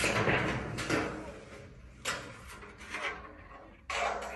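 A run of short scraping and rubbing noises, about six of them, at uneven intervals.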